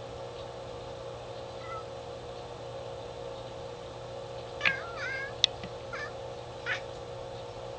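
Domestic cat chattering at birds: short chirps and bent trills come in a burst about two-thirds of the way in, with a sharp click among them, then a couple more brief chirps. A steady low hum runs underneath.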